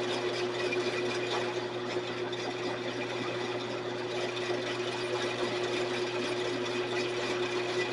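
Sears Craftsman 12-inch two-speed bandsaw running with no load: a steady motor hum with a constant tone as the blade runs around its freshly re-tired wheels.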